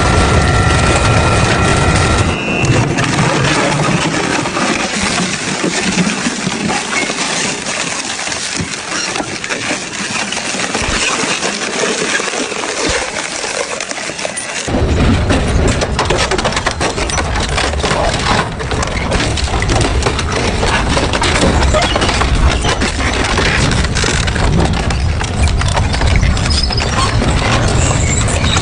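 Double-shaft industrial shredder tearing up scrap metal, with dense crunching, cracking and snapping. The deep rumble of the machine drops away about two seconds in and returns about halfway through.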